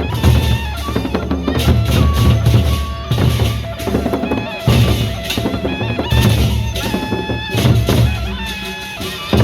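Loud drum-led procession band music: heavy, driving drumbeats with a melody of held notes stepping from pitch to pitch above them.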